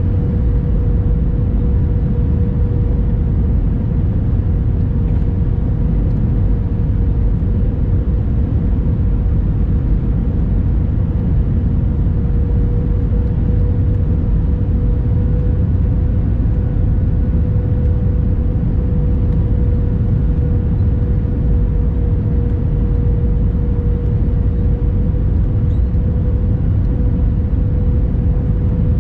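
Steady engine and airflow noise inside the cabin of an Airbus A321-200, a deep rumble with a constant hum running through it.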